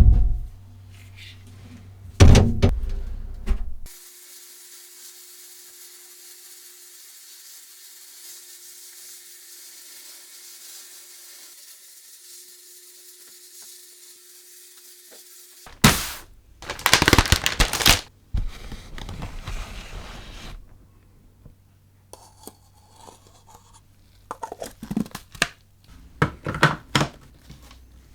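Knocks and thunks of hard parts being handled and struck at a workbench, in several loud groups with a stretch of quiet hiss between them and lighter clicks near the end.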